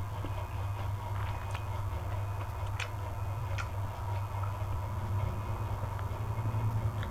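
Mouth and eating sounds from a mukbang: a few short, sharp, crisp clicks, such as chewing or crunching crackers, over a steady low hum.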